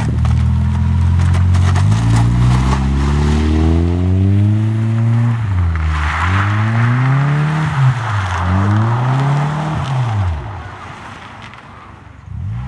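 A car engine revving hard on a snowy, icy road: its pitch climbs over the first few seconds, then surges up and down several times with a hiss from the tyres as the wheels spin, before dying down near the end.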